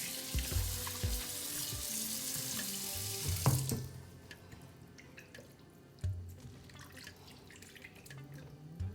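Kitchen tap running into the sink for about four seconds, then turned off. A few light knocks follow.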